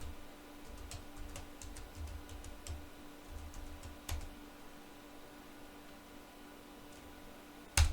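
Scattered computer keyboard keystrokes and clicks, with a louder click near the end, over a faint steady hum.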